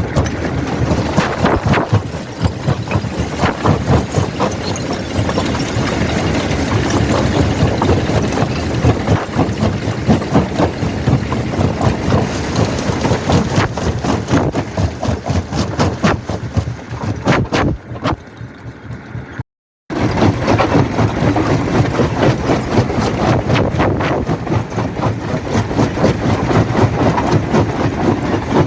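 Primary jaw crusher running and crushing rock: dense, irregular knocks and cracks of stone over a steady heavy machinery drone. About two-thirds of the way through it drops quieter for a couple of seconds, cuts out for a moment, then resumes as before.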